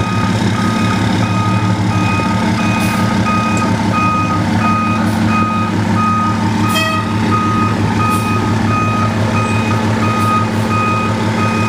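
Fire engine backing up: its reversing alarm gives evenly spaced beeps at one pitch over the steady running of the truck's engine.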